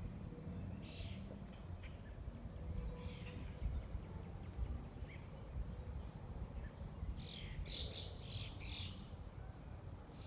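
Small wild birds chirping in short calls: a few scattered chirps, then a quick run of chirps about three-quarters of the way through, over a low steady rumble.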